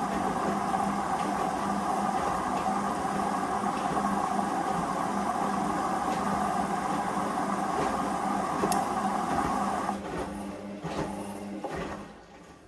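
Hoover Vision Dynamic washing machine running mid-wash with a steady hum, which stops about ten seconds in and winds down to quiet over the next couple of seconds.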